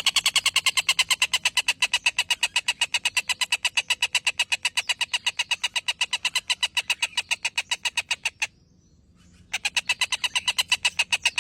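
A bird calling in a long, rapid, evenly spaced series of short sharp notes, about eight a second. It breaks off about eight and a half seconds in and starts again a second later: a trotol-style rattle used as a masteran recording for training songbirds.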